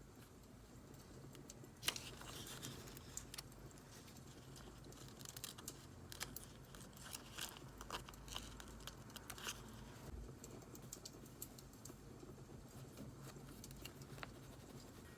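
Scattered small clicks, taps and paper rustles from a paper journal and stickers being handled, with the loudest click about two seconds in. These sit over a faint crackle of burning firewood.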